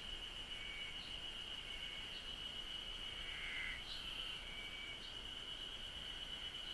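Cicadas droning in a steady high chorus, with short repeated calls about once a second and a louder call a little past the middle.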